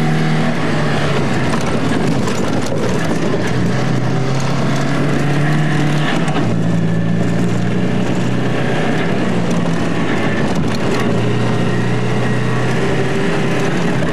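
Alfa Romeo Alfasud's flat-four engine running under load as the car is driven hard over rough dirt, with heavy road and body noise. The engine pitch steps up about halfway through and drops back a few seconds later.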